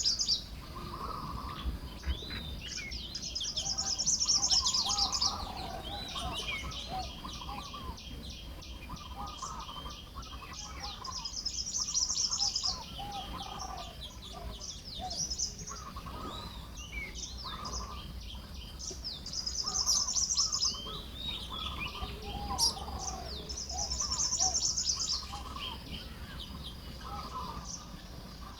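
Baya weavers chattering and singing while building their nests, a steady stream of short chirps broken several times by a long, high wheezing song phrase.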